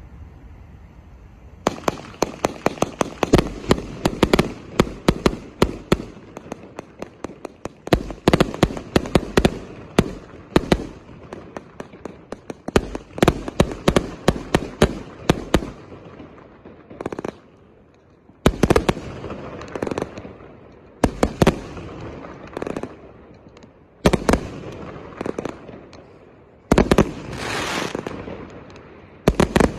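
A 1-inch, 198-shot consumer firework cake firing. Rapid strings of sharp shots and bangs start about two seconds in and run in quick succession for about fourteen seconds, then come in separate volleys a few seconds apart; the last volleys have longer, hissing tails.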